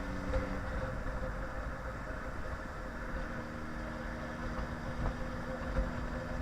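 Yamaha inline-four sport bike engine running steadily under way, with low wind rumble on the microphone; the engine note shifts partway through.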